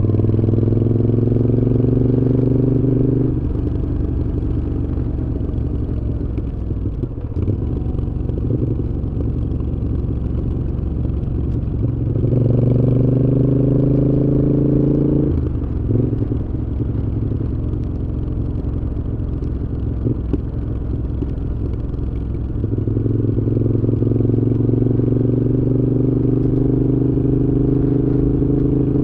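Moto Guzzi V7's transverse V-twin engine through a Mistral aftermarket exhaust while riding. The engine note rises under throttle three times: at the start, about twelve seconds in, and from about twenty-three seconds in; between these pulls it runs lower and rougher off the throttle.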